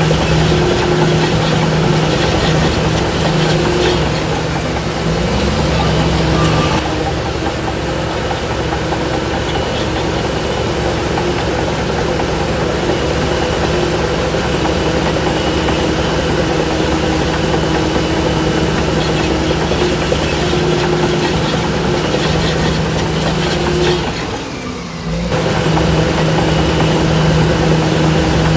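Shantui DH17C3 crawler bulldozer's diesel engine running steadily while working, with a constant engine note. It dips for about a second near the end, then carries on.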